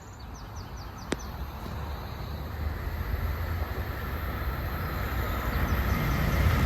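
Metrolink diesel commuter train approaching, its low rumble growing steadily louder. A single sharp click about a second in.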